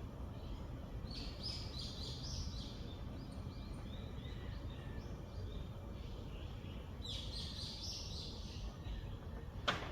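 A songbird singing two bursts of quick high chirps, about a second in and again about seven seconds in, over a steady low outdoor rumble. A single sharp click comes near the end.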